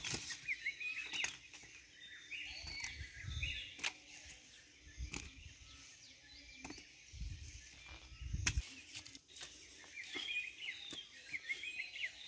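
Small birds chirping in short, repeated calls, at the start and again near the end, over a few sharp knocks and low rumbles.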